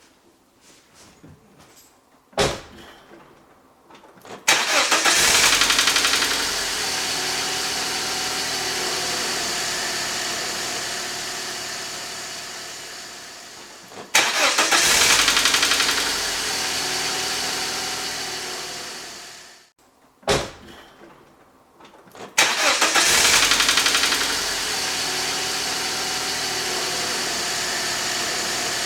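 BMW 318i (E46) engine cold-started twice. Each time it catches loudly and a rattling "kakaka" sounds for the first few seconds before it settles to a steady idle; the owner cannot tell what the rattle is. A few clicks come before the first start, and the engine is switched off once between the two starts.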